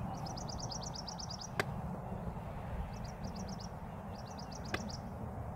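A small songbird singing rapid trills of quick down-slurred chirps, a long phrase followed by three shorter ones. Two sharp clicks cut in, one about a second and a half in and another near the end, over a steady low outdoor background noise.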